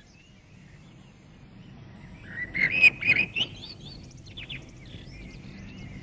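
Small birds chirping, with a loud cluster of chirps and trills about two and a half seconds in, then scattered calls over a low steady background hum.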